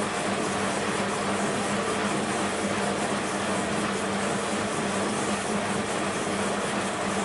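BEKO WMB 51441 washing machine running a spin: a steady drum-and-motor hum with a constant low whine.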